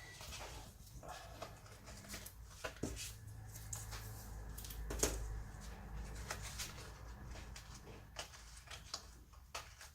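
Quiet handling of paper and ribbon: soft rustles with scattered small clicks and taps, a slightly sharper tap about three seconds in and another about five seconds in, over a faint low hum.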